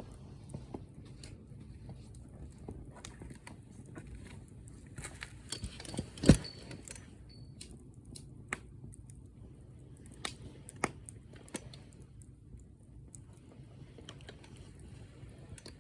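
Wood fire crackling, with scattered sharp pops over a low steady rumble; one loud pop about six seconds in, followed by a brief high squeal, and a few more pops later on.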